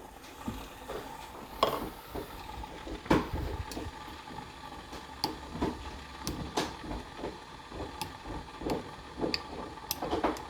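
Pan of water simmering under a bowl of melting wax, giving scattered light ticks and knocks at irregular intervals over a low hum.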